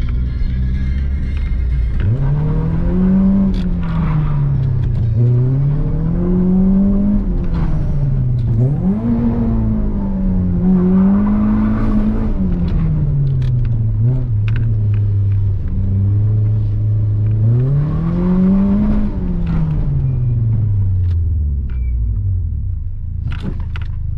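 A 2009 Dacia Logan's 1.6 16-valve four-cylinder engine, with a de-catted custom exhaust, heard from inside the cabin. It idles steadily, then revs up and eases off about five times as the car is driven, and settles back to idle near the end.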